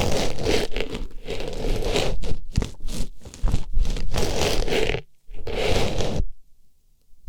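Artificial flower scraping and rustling close against an ear microphone, with crackly stroke after stroke. It breaks off briefly about five seconds in, returns for a second, then stops near the end.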